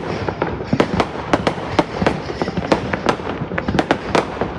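Fireworks going off in a dense barrage: irregular sharp bangs, about four or five a second, over a steady rumbling haze of further bursts.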